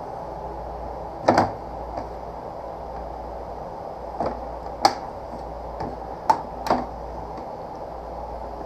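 Plastic cowling panel of a Kawasaki Ninja 300 being pushed and knocked into place, its tabs clicking and knocking against the fairing several times at irregular intervals.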